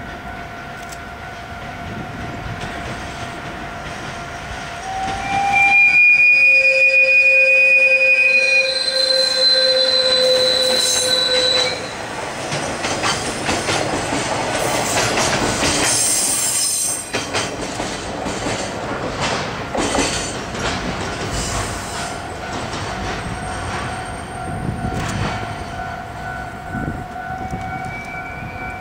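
A Gakunan Railway freight train of JR Freight container wagons passing close by: a long high squeal of steel wheels on the rail for several seconds as it draws near, then the rumble and quick clickety-clack of the wagons going by, easing off as the train moves away.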